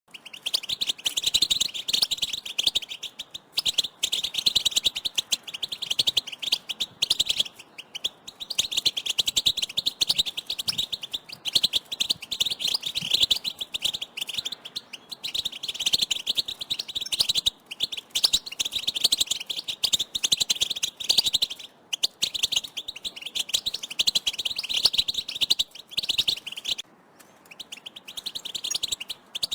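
European goldfinches calling as a group: a dense, rapid twittering chatter of call notes, with a short break near the end.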